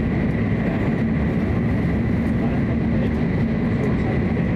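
Hokuriku Shinkansen train running at speed, heard from inside the passenger cabin: a steady, even rumble with a faint steady high whine.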